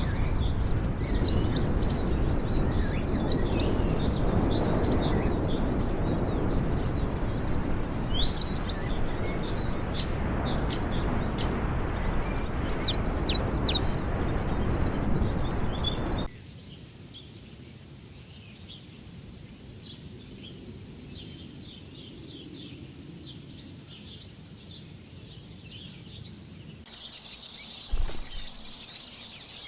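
Many small birds chirping over a loud, steady rushing noise, which cuts off abruptly a little past halfway, leaving quieter bird calls. A single thump near the end.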